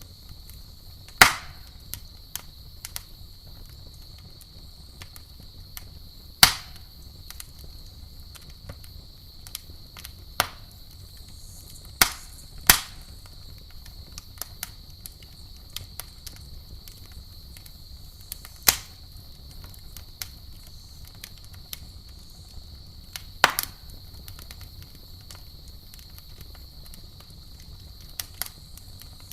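Campfire burning with sharp pops and crackles every few seconds, over a steady high chirring of crickets.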